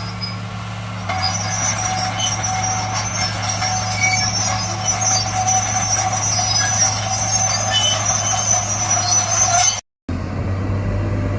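Heavy diesel construction machine running steadily, with high, thin squealing tones over the engine hum. Near the end the sound cuts abruptly to another engine, deeper, with a rising tone.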